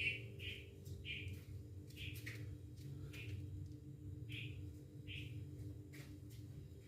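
A bird chirping repeatedly, short calls about one a second, over a faint low steady hum.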